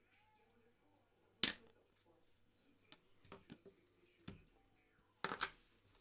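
Scattered sharp clicks and taps of small tools and phone parts being handled. The loudest comes about a second and a half in, with a quick cluster near the end.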